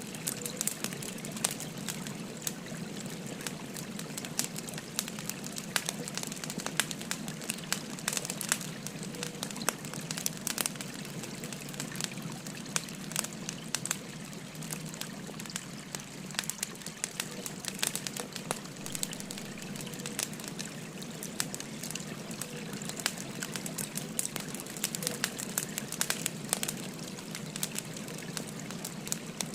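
Wood fire crackling with frequent small sharp pops, over the steady babble of a flowing stream.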